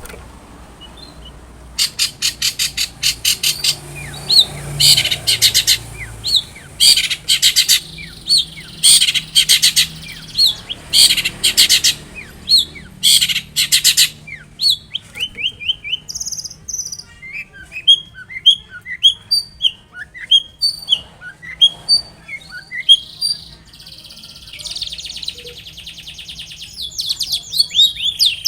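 Long-tailed shrike (cendet) singing loudly. It gives bursts of harsh, rapid chatter in the first half, then a quick series of short separate chirps, and a fast trill near the end.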